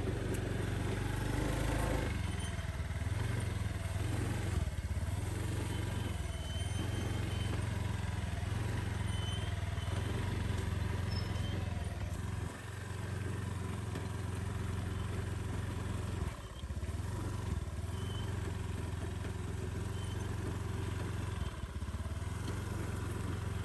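Small motorcycle engine running steadily while riding, with a low, even hum that drops off briefly twice.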